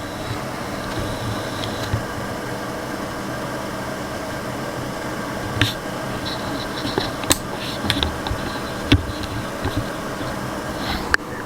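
Small electric ventilation fan running steadily: an even whir with a low hum, broken by a few light clicks.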